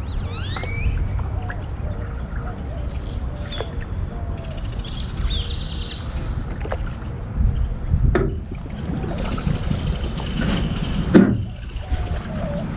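Wind rumble on the microphone of a small boat drifting on a pond. Birds are calling: a quick run of rising whistles at the start and chirps around the middle. A few sharp knocks come from the boat, the loudest near the end.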